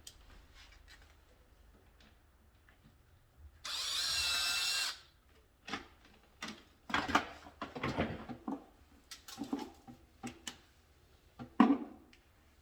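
A power drill runs in one steady burst of about a second, followed by a string of clicks and knocks from tools and parts being handled; the sharpest knock comes near the end.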